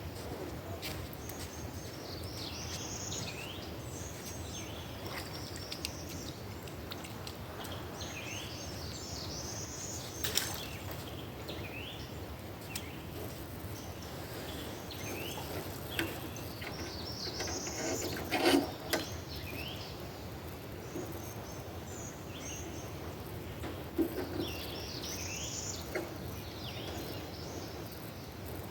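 Songbirds singing in repeated phrases of quick rising and falling chirps over a steady outdoor hiss, with a few scattered knocks; the loudest knock comes about two-thirds of the way through.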